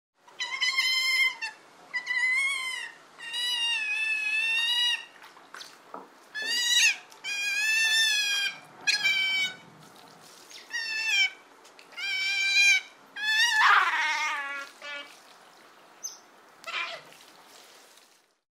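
Sea otter giving a series of high-pitched squealing calls, about a dozen in all, some bending up and down in pitch.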